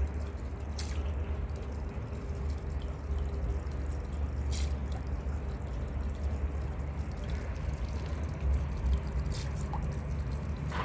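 Steady trickle of running water over a low hum, with a few faint clicks.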